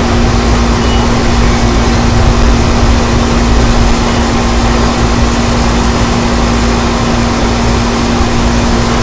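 Strong wind rushing and buffeting the microphone in a loud, steady low rumble, with a steady hum underneath.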